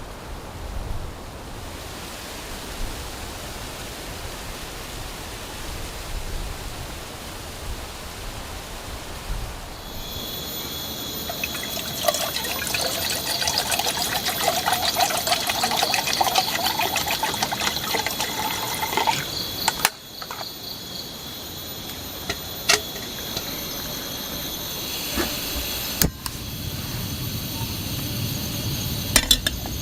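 Steady rain hiss. From about ten seconds in, a louder, busier stretch of water sounds with dense crackling clicks, then quieter again after about twenty seconds, with a few sharp knocks.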